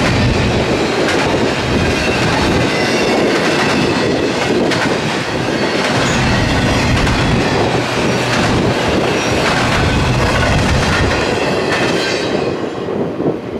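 Freight train cars rolling past, wheels clicking irregularly over the rail joints, with faint wheel squeal. About twelve seconds in the noise drops and thins out as the last cars go by.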